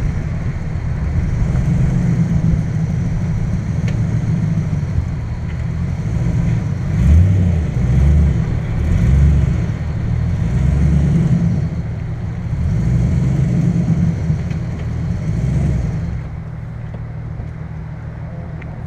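Ford Mustang's engine running at low speed as the car rolls slowly, the low rumble swelling unevenly between about seven and sixteen seconds in. About sixteen seconds in it drops to a quieter, steadier level.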